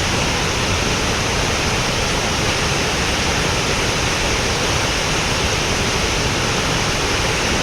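Waterfall pouring steadily over a drop of about 33 feet, in heavy flow after a wet winter, a constant, even rush of water.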